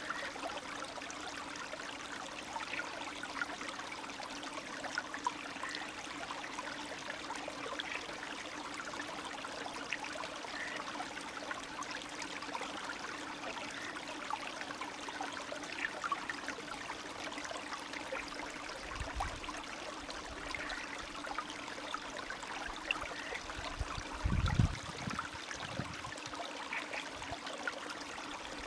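Spring stream of meltwater running and trickling steadily, with small splashes and gurgles. Two brief low rumbles come about two-thirds of the way in and again near the end, the second the loudest sound here.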